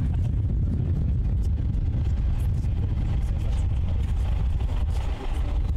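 AirCar flying-car prototype's engine running as it drives along the runway in car mode, a steady low hum.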